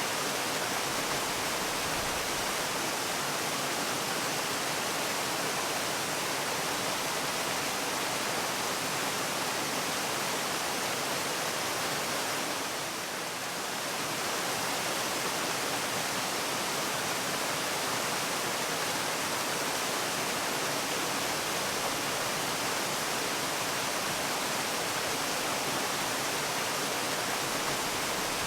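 Waterfall: a steady, even rush of falling water, which dips slightly in level for a moment about halfway through.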